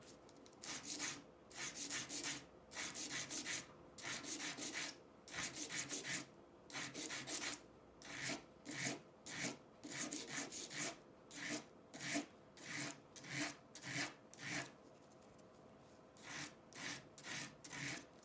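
Hand rubbing or filing strokes, about two a second in short runs with brief pauses: abrading work of the kind used to clean up a rusty edge iron.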